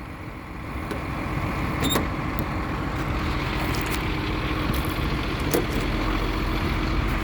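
Truck engine idling steadily, with a couple of light clicks over it.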